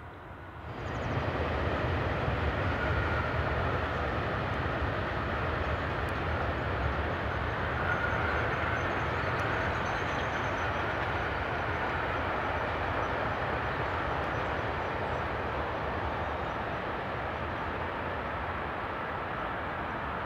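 Long freight train of open goods wagons rolling past: a steady rumble of wheels on rail that starts suddenly about a second in, with a faint high squeal coming and going.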